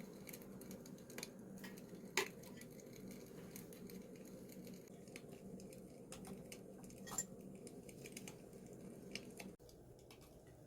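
Light clinks of tableware over a steady low hum, with sharper clinks about two, seven and nine seconds in; the hum stops abruptly near the end.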